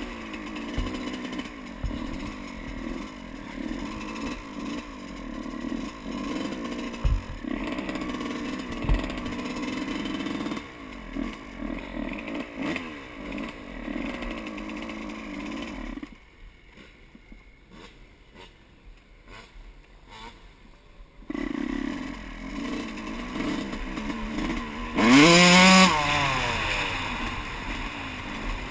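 Yamaha YZ125 dirt bike's two-stroke single-cylinder engine running at fairly steady revs, with a few low thumps. It goes much quieter for about five seconds past the middle, then comes back and revs up sharply near the end.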